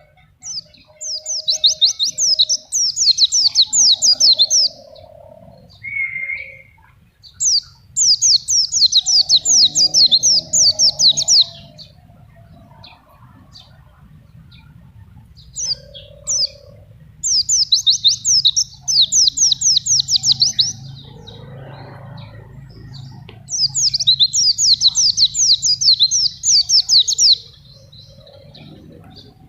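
White-eye (pleci) singing in four bursts of rapid, high, chirping trills, each a few seconds long, with short pauses between them.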